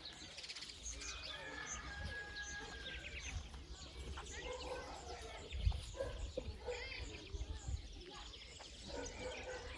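Several songbirds singing and chirping at once, with overlapping short chirps, trills and a held whistled note, over a low rumble.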